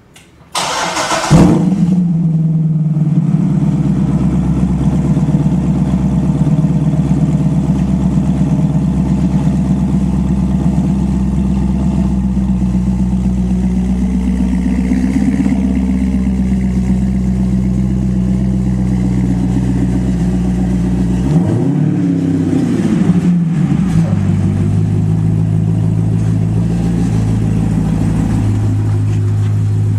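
Chevrolet Corvette Z06's 7.0-litre LS7 V8 through a Bassani Dominator GT race exhaust, cold started: a short burst of cranking, then the engine catches with a bark and settles into a steady, loud fast idle. Later a quick rev rises and falls, and after it the idle sits lower and steady.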